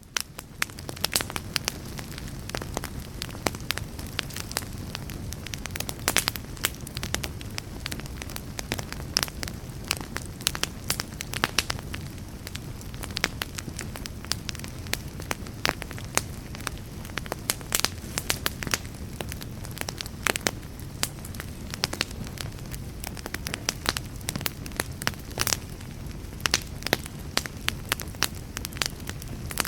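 Fire crackling: a steady low rumble of burning with frequent, irregular sharp pops and snaps.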